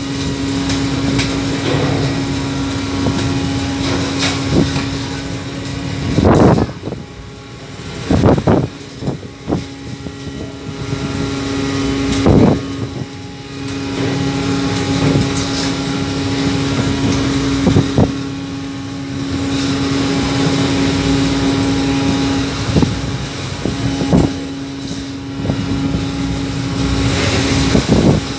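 A longline fishing boat's engine drones steadily under a rushing wash of water and wind, with several heavy sudden crashes as storm waves strike the hull.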